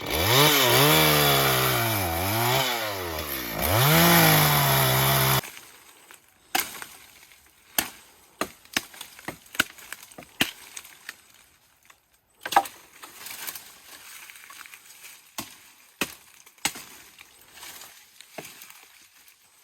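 Brush cutter engine revving up and down as it cuts wood, stopping abruptly about five seconds in. Then scattered sharp knocks and snaps of wood being chopped and broken, one louder crack near the middle.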